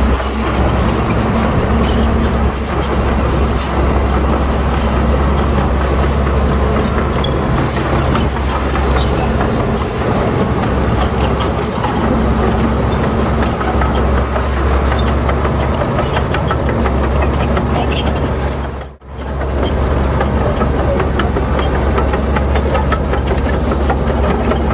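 Heavy diesel earth-moving machinery running steadily under load, with a strong low engine hum and a scatter of small clanks and rattles. The sound cuts out briefly near the end, then resumes.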